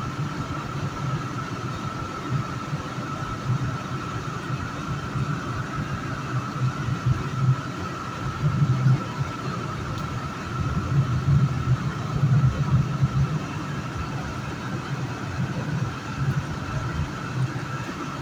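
Metro-North commuter train running through a tunnel: a steady low rumble of wheels on rail that swells and eases irregularly, with a thin, steady high whine.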